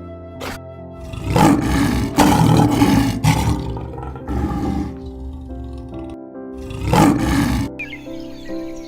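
An animal roaring: a long loud roar in the first half, a shorter one in the middle and another near the end, over steady background music.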